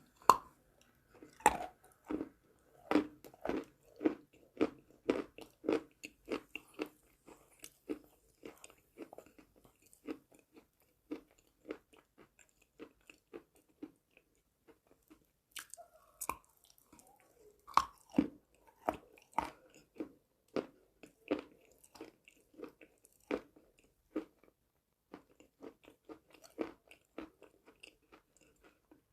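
Crunchy biting and chewing of dry chalk, close to the microphone: steady crunches one or two a second, with a few louder, sharper bites, one near the start and two more about halfway through.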